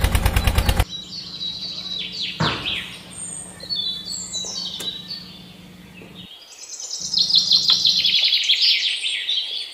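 Songbirds chirping and singing in quick, rising and falling calls, thickest near the end. A loud, fast, even mechanical rattle of about a dozen pulses a second cuts off suddenly about a second in.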